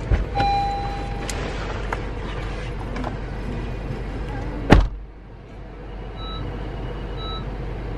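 Car noise: a steady low rumble with small clicks, then a sharp thump just under five seconds in. After the thump the rumble drops and a short beep repeats about once a second.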